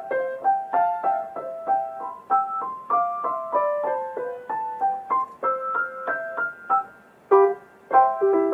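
Yamaha grand piano playing the introduction to a Japanese children's song in C major: a lilting run of struck notes and chords, each ringing and dying away, with a brief lull about seven seconds in before two closing chords.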